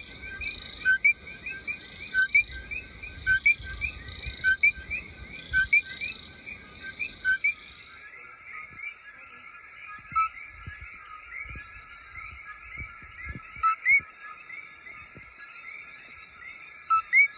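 Coquí frogs calling in a chorus: many short, repeated rising calls overlapping, over a steady high hum. About eight seconds in the background changes abruptly to another stretch of calling frogs.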